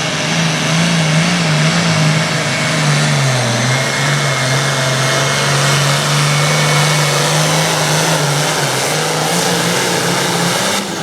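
International 1066 pulling tractor's modified six-cylinder diesel running flat out under load down the track. Its note sags slightly about three seconds in, then holds steady.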